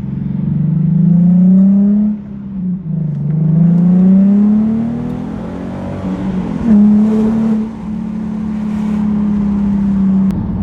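2017 Nissan 370Z's 3.7-litre V6 under hard acceleration. The engine note rises through a gear, drops at a shift about two seconds in, and climbs again through the next gear. From about seven seconds in it holds a steady note, then eases off near the end.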